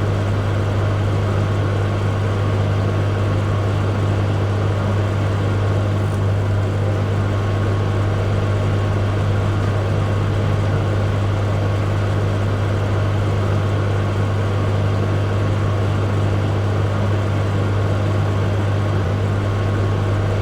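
Microwave oven running: a steady, unbroken low hum over an even whir of fan noise.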